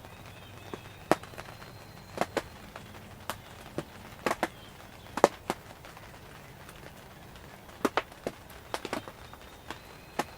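Irregular sharp clicks and taps, about a dozen scattered, some in quick pairs, over a quiet background.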